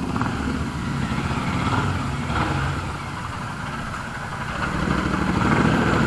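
Motorcycle engine running steadily, a low, rapidly pulsing rumble that grows a little louder late on.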